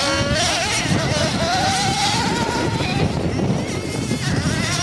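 Nitro RC cars' small glow-fuel engines racing, a high whine that rises and falls in pitch as they rev, over a steady rush of noise.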